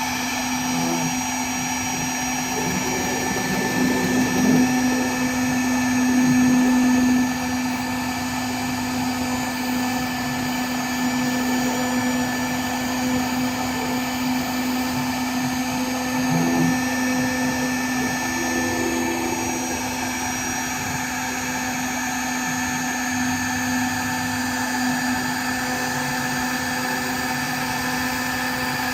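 CNC router spindle running at a steady high pitch while milling an acacia cutting board, with the cutting noise swelling louder for a few seconds about four seconds in.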